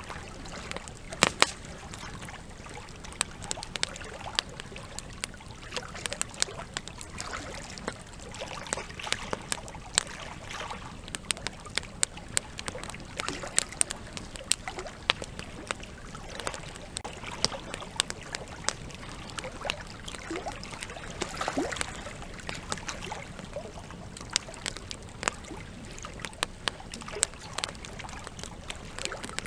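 Wood campfire crackling with frequent irregular sharp pops, over the steady trickle and rush of a flowing river.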